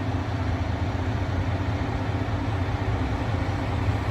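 Crane truck's diesel engine running steadily, a low even drone.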